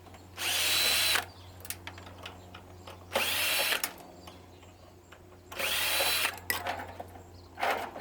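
Power drill run in four short bursts, each under a second, its motor whine rising and falling, as screws are driven out of the air purifier's casing during its teardown.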